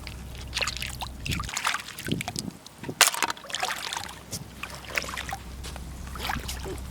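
Irregular wet splashing and squelching of movement through wet sand and shallow water on a tidal flat, with a sharp click about three seconds in.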